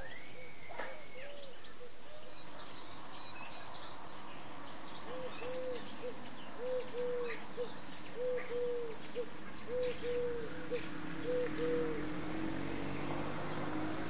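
Wild birds calling: scattered high chirps and twitters from small birds, and from about five seconds in a low, hollow hooting call repeated in short groups of two or three notes.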